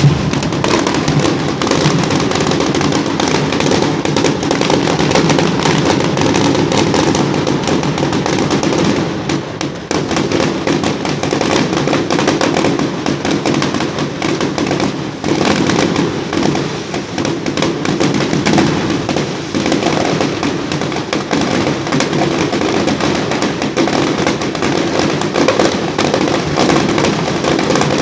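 Fireworks display: a dense, continuous barrage of bangs and rapid crackling, easing briefly about ten seconds in.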